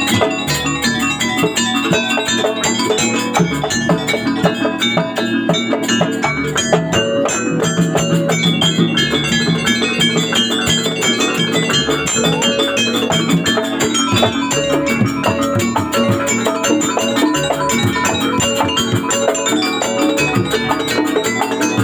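Live jaranan ensemble music, with tuned metal percussion and drums playing a dense, steady pattern without a break.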